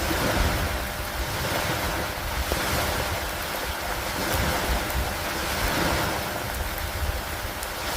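Stormy lake ambience: a continuous rush of rain, wind and lake water that swells and eases every couple of seconds, with a deep low rumble underneath.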